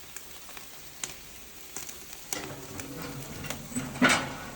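Birds roasting, the meat sizzling with scattered sharp crackles and pops, and a louder burst of sizzle about four seconds in.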